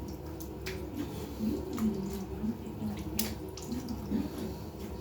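Water splashing and dripping in a basin during a cat's bath, with scattered sharp drips and clicks.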